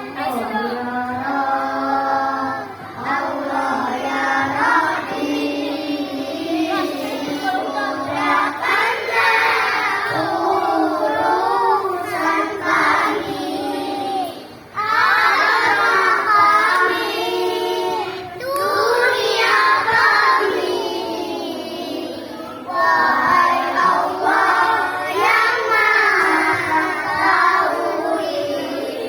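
Children singing a song, the melody carrying on with only a brief break about halfway through.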